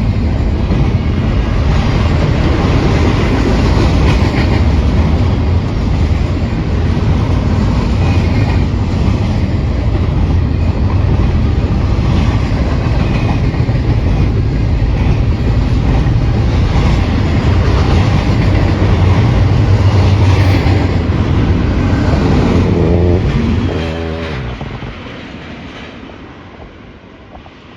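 Freight train rolling past close by: a steady heavy rumble with wheels clacking over the rail joints. About 23 seconds in the sound fades away as the end of the train goes by.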